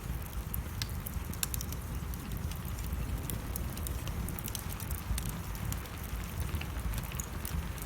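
Wood fire crackling in a fireplace: frequent irregular sharp pops and snaps over a steady low rumble, with rain falling.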